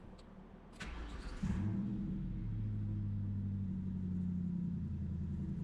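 2004 Ford Mustang engine cranked on the starter about a second in, catching quickly and settling into a steady idle, its speed easing down a little after a couple of seconds. The key now starts the car: the new ignition switch rod works.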